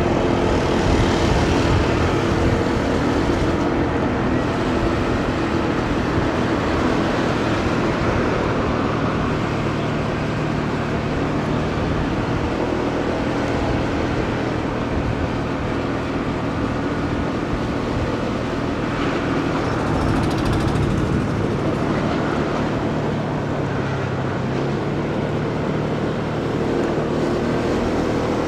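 Motorcycle engine running steadily while riding through city traffic, with road and wind noise; the engine note shifts slightly past the middle.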